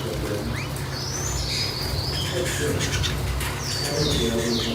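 Small cage birds chirping: short, high notes, several of them sweeping down in pitch, over a steady low hum.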